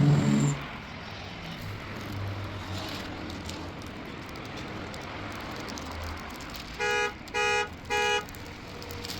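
Three short pitched beeps in quick succession near the end, over a steady low hum; a louder low tone stops about half a second in.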